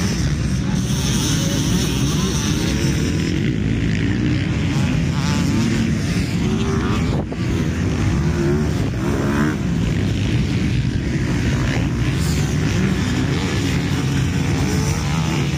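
Several motocross bikes racing on a dirt track, their engines revving up and down as they accelerate and shift.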